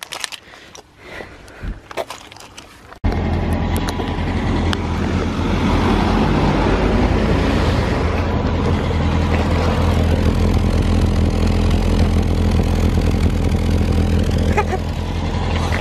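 Toyota Corolla's engine and exhaust running steadily through a cut plastic soda bottle fitted over the tailpipe as a joke exhaust. The sound cuts in suddenly about three seconds in and holds as a loud, even low drone.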